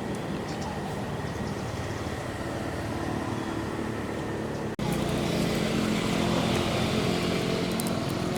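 Steady drone of a running motor. It breaks off abruptly about five seconds in and resumes slightly louder.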